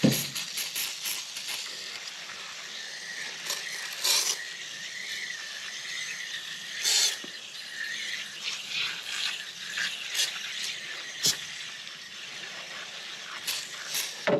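Aerosol foaming coil cleaner sprayed from a can onto an RV air conditioner's coil fins: a narrow jet hissing in repeated short bursts over a steady background hiss.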